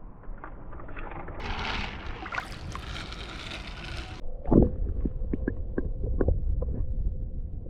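Water splashing for a few seconds, then cutting off suddenly. After that comes a low wind rumble on the microphone with scattered light knocks.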